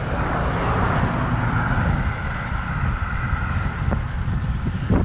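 Steady wind rush on the microphone of a moving road bicycle, mixed with the hum of road traffic going by, which swells for a couple of seconds in the middle.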